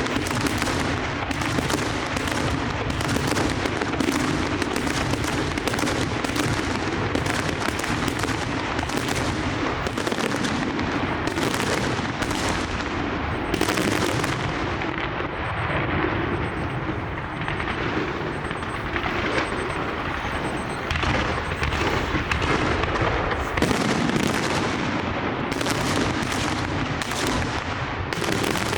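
Large fireworks display: aerial shells bursting in a dense, near-continuous barrage of bangs and crackle, with barely a pause between reports, thinning a little midway and thickening again near the end.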